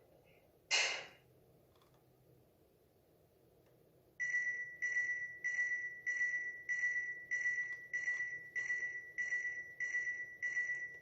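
A short, sharp noise about a second in. Then, from about four seconds in, a steady electronic beeping at one high pitch, just under two beeps a second.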